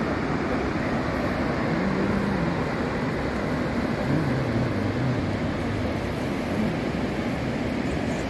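Steady rushing of a large waterfall, Iguazu Falls' cascades pouring down close by, an even wall of low-to-mid noise.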